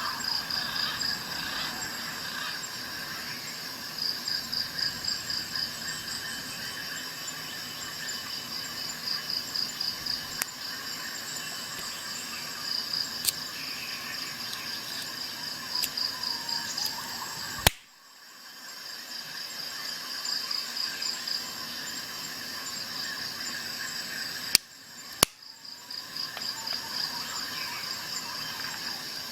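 Insects chirping in rapid pulsing trills, cricket-like, over a steady outdoor background. A sharp click comes past the middle and two more close together a few seconds later, each followed by a brief drop in the background sound.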